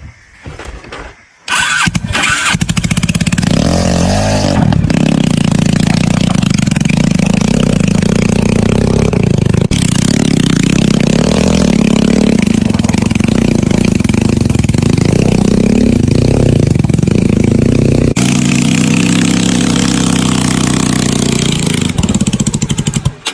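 Motorcycle engine starting about a second and a half in, then running loudly with its revs rising and falling, until it cuts off abruptly near the end.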